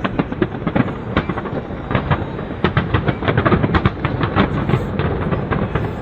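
Fireworks going off in a rapid, dense series of bangs and crackles over a continuous rumble, thinning out near the end.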